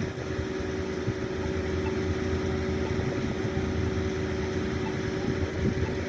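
A vehicle engine idling steadily, a constant hum with a low rumble beneath it.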